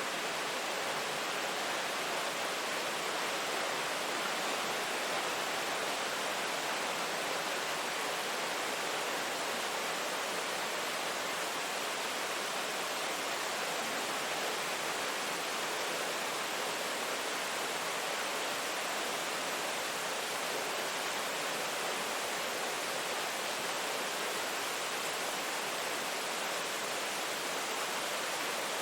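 Steady heavy rain, an even, unbroken hiss with no single drops or thunder standing out.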